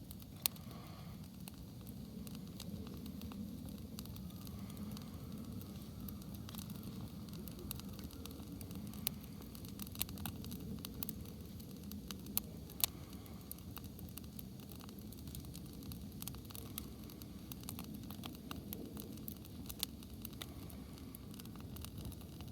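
Wood campfire burning in a B-Ⅵ-Duo fire unit: many small crackles and a few sharper pops over a steady low rush of flame.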